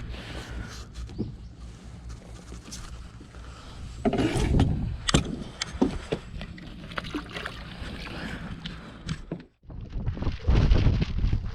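Scattered knocks and clicks of gear being handled on a small fishing boat over a steady low rumble, with louder knocks about four seconds in and again after a brief dropout near the end.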